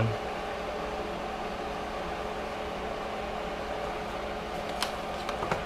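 Steady whirring hum of a running fan with a constant low drone, and a couple of light clicks near the end.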